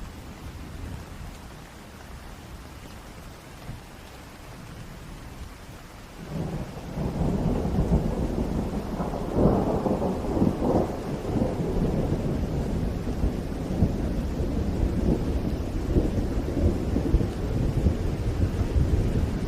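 Steady rain with a long roll of thunder: a low rumble swells about six seconds in, peaks a few seconds later and goes on rumbling under the rain.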